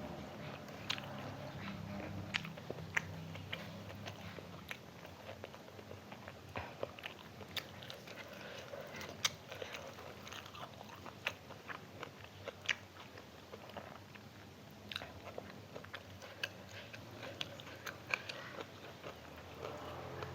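Close-up chewing and biting of food, with irregular sharp crunches and mouth clicks.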